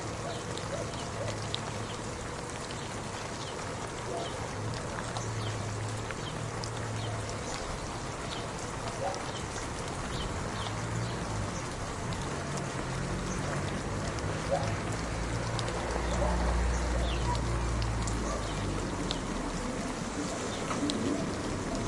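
Steady rain with many separate drops pattering close by, over a low hum that swells for a few seconds about two-thirds of the way through.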